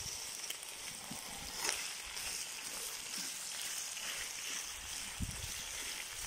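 Sliced onion and meat frying in hot oil in a kazan over a wood fire: a steady sizzle, with a single short knock about a second and a half in.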